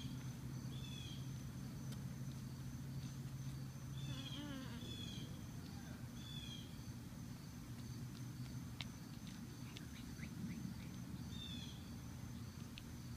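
Short high chirps every few seconds, one a quick wavering run, over a steady high-pitched whine and a low hum.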